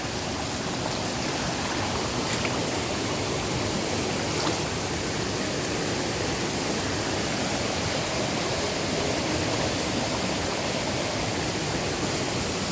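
Steady rushing of running water, an even noise without breaks.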